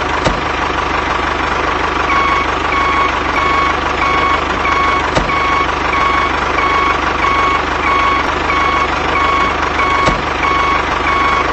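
Steady tractor engine running, with a reversing beeper starting about two seconds in and beeping evenly, roughly three beeps every two seconds.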